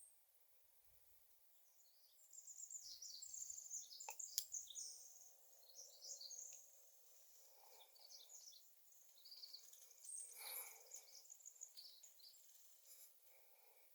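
Faint birdsong: small birds chirping in quick runs of high notes, starting about two seconds in and coming and going.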